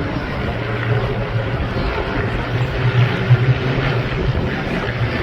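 Several light single-engine propeller aircraft flying past in formation, a steady engine drone that swells about three seconds in.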